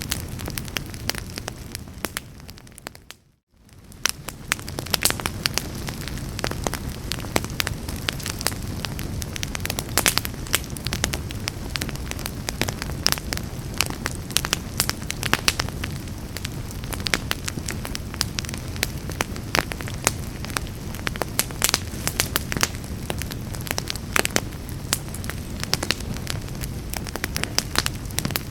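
Fireplace fire crackling and popping irregularly over a low, steady rumble of flames. About three seconds in it fades almost to silence for a moment, then fades back up.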